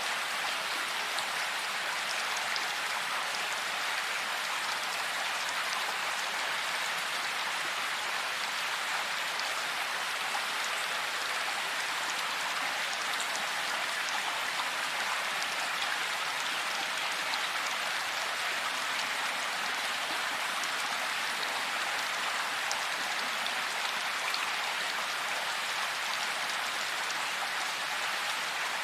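Steady rain falling, a dense even hiss of drops with faint individual drop ticks throughout.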